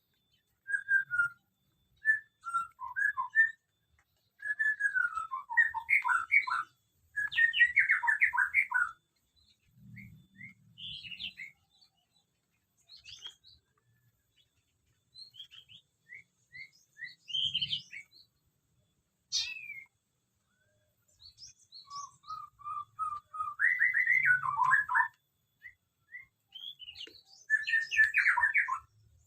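Small aviary birds chirping and twittering, with several louder bursts of quick, falling runs of chirps between quieter spells of single calls.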